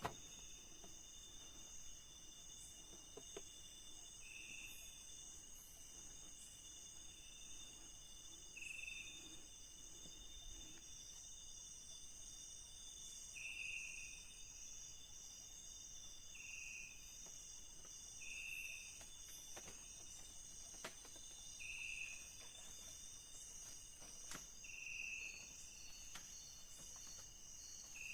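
Night-time tropical forest insect chorus: several steady, high-pitched cricket-like drones layered together, with a short lower chirp repeating every few seconds.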